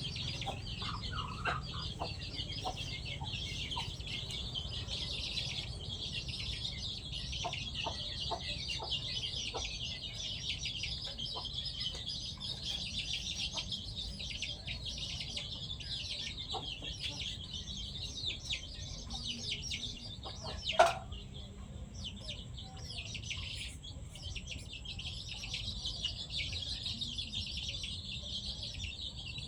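Free-range chickens clucking softly and pecking at food, over a steady high-pitched background hiss. A single sudden loud, sharp sound stands out about two-thirds of the way through.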